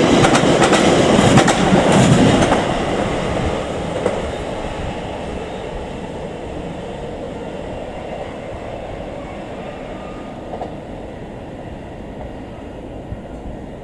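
Electric multiple-unit passenger train running away over the rails and points. It is loudest for the first two and a half seconds, then fades steadily as it recedes.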